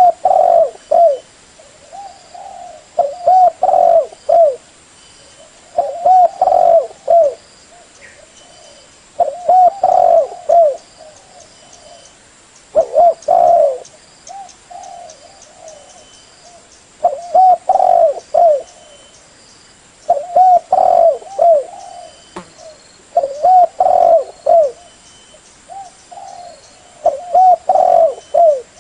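Spotted dove (terkukur) cooing: phrases of several short, hollow coos repeated about every three seconds, about nine phrases in all.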